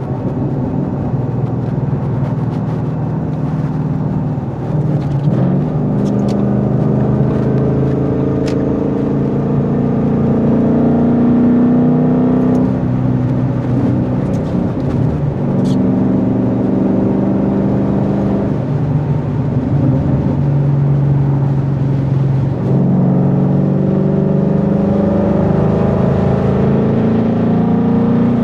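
Ford Coyote 5.0 V8 of a 2014 Mustang GT under way, its exhaust note rising and falling several times as the car speeds up and eases off.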